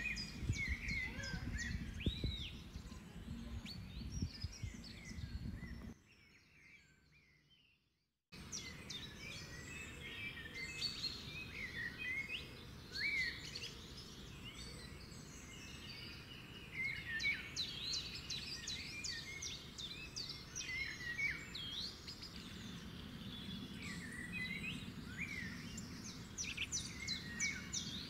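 Several birds chirping and calling together, a dense mix of short whistled notes and quick up-and-down glides. The sound drops out almost completely for about two seconds, six seconds in, then the birdsong resumes.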